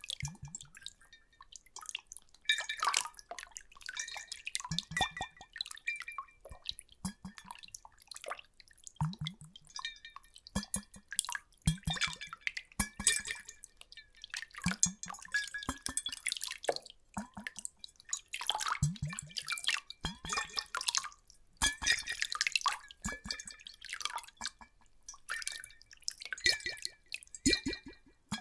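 Water splashing and dripping in quick, irregular bursts, some louder than others, with faint ringing tones between them.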